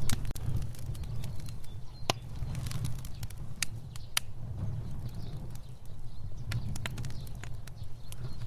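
Fire burning, with irregular sharp crackles and pops over a steady low roar of flames.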